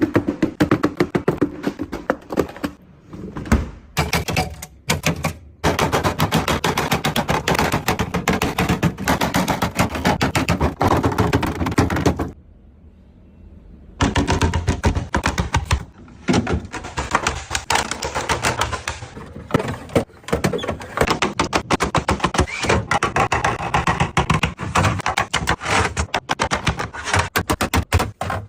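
Rapid clicking, tapping and clattering of plastic containers and packaging being handled and set down while a fridge is restocked, with a short pause near the middle.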